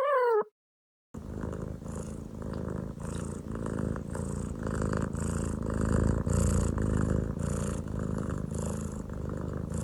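A domestic cat purring, a continuous low rumble that swells and eases with each breath. At the very start, before it, a brief falling whine that cuts off.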